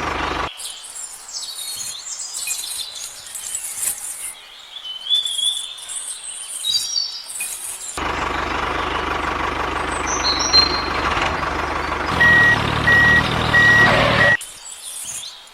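Truck sounds: a steady engine-like running sound, and a vehicle reversing alarm beeping evenly for about two seconds near the end. Earlier there are quieter stretches with short high whistling chirps, and the sound cuts off suddenly.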